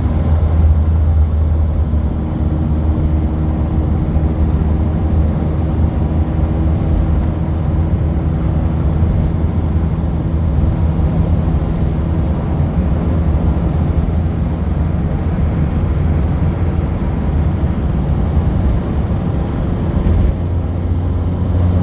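A car driving at a steady pace, its engine running with a constant low drone over road noise.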